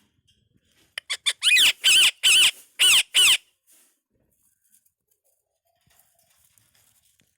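Indian ringneck parakeet calling: two short chirps about a second in, then five loud, harsh calls in quick succession, each rising and falling in pitch, over about two seconds.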